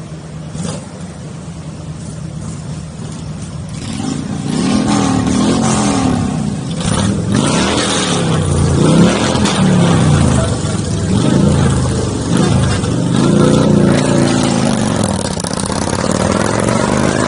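Motorcycle engines running and revving up and down again and again, louder from about four seconds in, over steady rushing noise.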